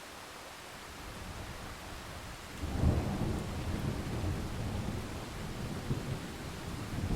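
Steady rain with a roll of thunder. The rumble builds about a second in, breaks with a sharp crack near the middle and keeps rolling and grumbling through the rest.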